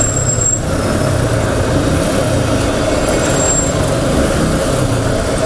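Motorcycle engine idling in dense city traffic, with heavy vehicles such as buses or trucks running close by. A thin high squeal sounds briefly twice, near the start and about three seconds in.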